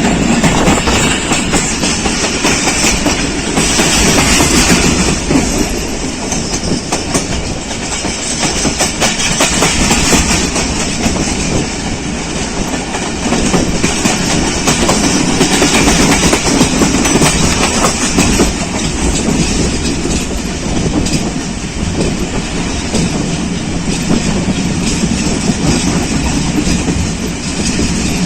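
Passenger express train running through a station at steady speed, its coaches rolling past with a continuous rumble and a run of wheel clicks over the rail joints.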